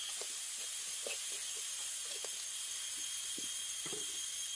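Chili paste with dried chilies and whole spices sizzling in oil in a wok: a steady hiss, with a few faint soft knocks scattered through it.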